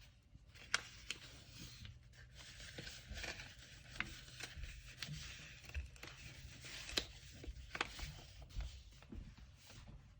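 Paper being handled and rustled during packing, with a few sharp clicks or taps along the way.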